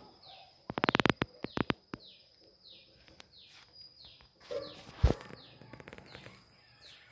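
A bird calling over and over, a short falling chirp about twice a second. A quick run of clicks and knocks comes about a second in, and a single thump a little past the middle.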